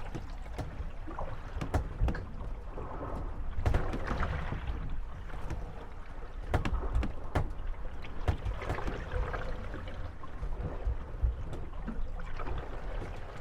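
Moored gondolas rocking on the waves, their hulls knocking and creaking against each other at irregular moments over the slosh of water.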